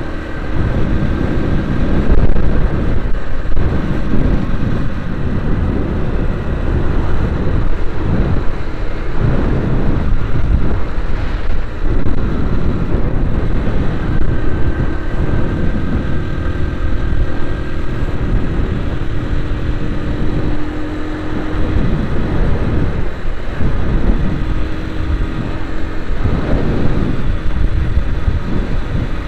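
Motor vehicle driving along a road: steady engine and road noise with a low rumble, the engine note shifting now and then.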